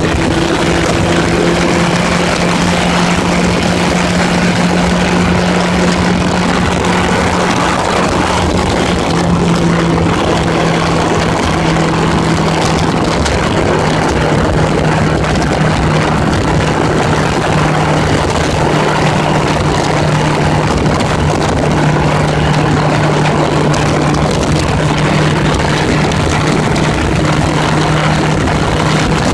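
1980s Honda Gold Wing motorcycle engine running steadily at cruising speed, under a constant rush of wind and road noise; the engine note dips slightly about nine seconds in and then holds steady.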